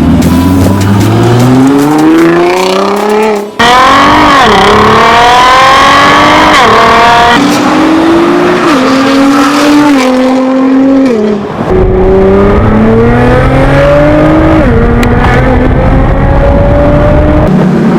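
Nissan GT-R with an Armytrix aftermarket exhaust accelerating hard, the engine note climbing and dropping back at each upshift as it pulls through the gears. A brief break about three and a half seconds in, then more runs up through the gears.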